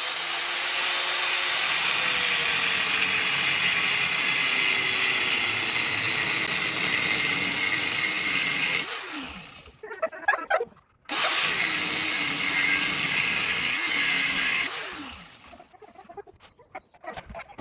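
Angle grinder cutting into a steel plate, a score line to make it bend. It runs in two stretches: a long cut of about nine seconds, a short pause, then a second cut of about four seconds, with the motor's pitch sagging under load.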